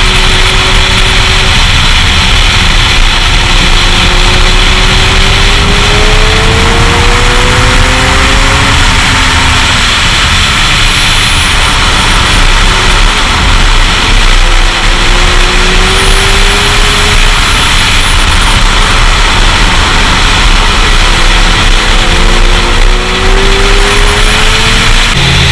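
Sport motorcycle engine at speed on a race track, rising in pitch several times in long sweeps as it accelerates, under a loud steady rush of wind.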